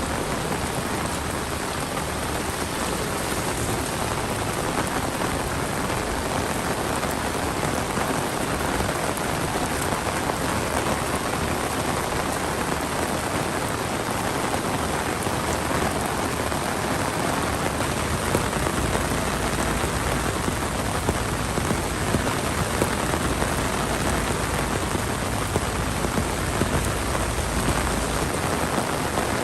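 Heavy monsoon rain pouring down steadily. A low rumble sits under it for several seconds in the second half.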